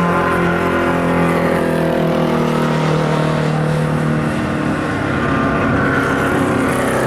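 Endurance race car engines passing at speed on the circuit, their pitch slowly falling over the first few seconds as the sound fades, then another car's engine building near the end.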